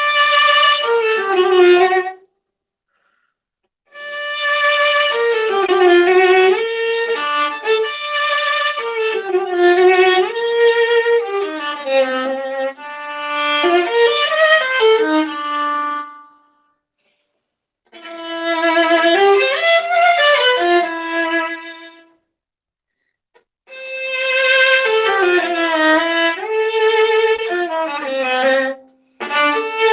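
Solo viola playing bowed melodic phrases with vibrato, broken by short pauses about 2, 16, 22 and 29 seconds in, heard through a crunchy-sounding microphone.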